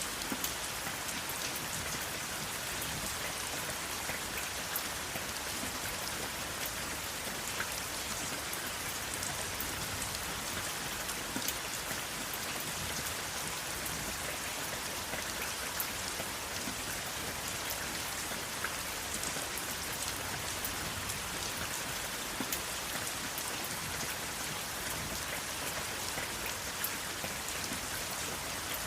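Steady rain falling, a constant hiss with scattered sharper drop ticks and no thunder.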